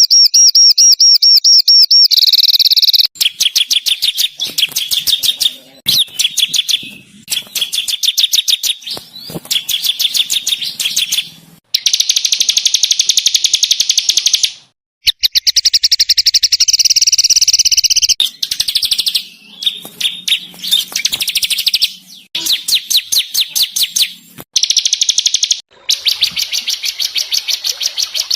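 Masteran recording of small songbirds singing harsh, rapid-fire trills ('tembakan kasar'): fast runs of repeated high notes in bursts of a few seconds. The bursts break off abruptly between segments.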